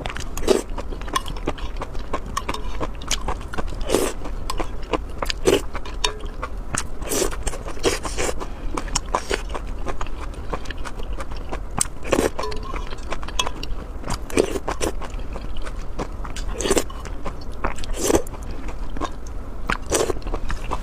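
Close-miked eating: a person biting and chewing food with many irregular sharp mouth clicks and smacks, over a steady low hum.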